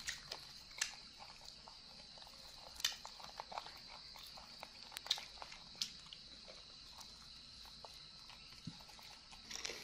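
Faint, scattered crunching and clicking from eating crispy fried cake, with a few sharper crunches spread through.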